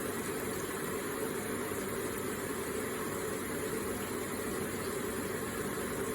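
Water in a small electric water feature falling and splashing steadily: an even, unbroken rush.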